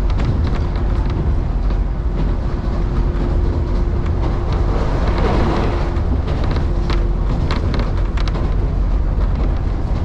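JR Kusatsu Line electric train running between stations, heard from inside: a steady low rumble of wheels on the rails with scattered clicks and a faint steady hum.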